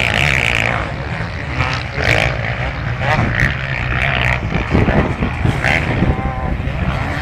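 Motocross motorcycle engines running and revving on a race track, with voices mixed in.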